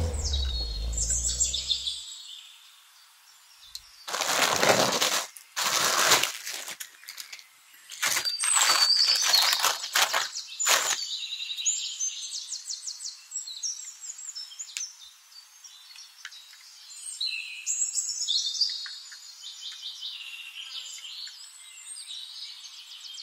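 Small birds chirping and twittering. A run of crackling noise bursts falls between about four and eleven seconds in, and a low hum cuts off about two seconds in.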